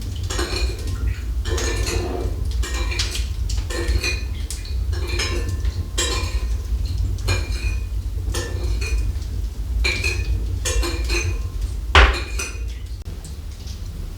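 Repeated clinks and scrapes, one every half second to a second, with a single louder knock about twelve seconds in, over a steady low rumble.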